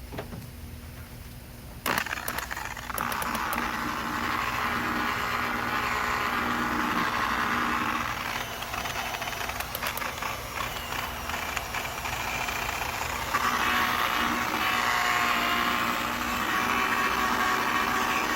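Electric buffer running at low speed, polishing compound into a plastic headlight lens. It starts with a click about two seconds in, eases off around eight seconds in, and picks up again about thirteen seconds in.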